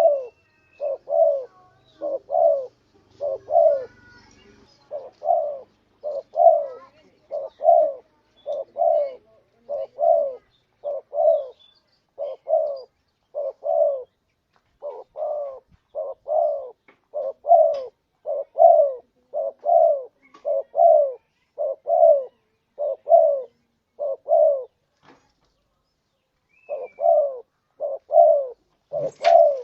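Spotted dove (tekukur) cooing: a long run of short, evenly repeated coos, about two a second, broken by a pause of about two seconds near the end. A sharp click sounds just before the end.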